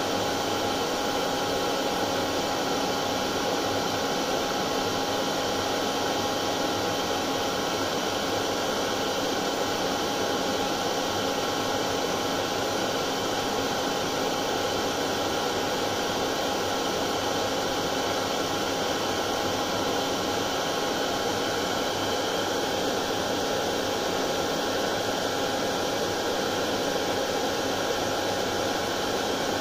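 Hair dryer running steadily: an even rushing whoosh of blown air with the motor's faint steady hum underneath, unchanging throughout. Continuous hair dryer noise of the kind played to soothe colicky babies to sleep.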